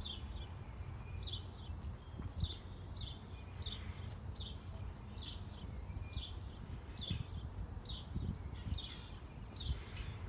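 A small bird chirping over and over, one short high chirp about every two-thirds of a second, over a low steady background rumble.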